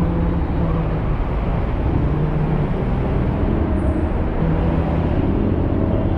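Honda X-ADV 750's parallel-twin engine running under way, heard over a steady rush of wind and road noise, its hum coming and going as the throttle changes.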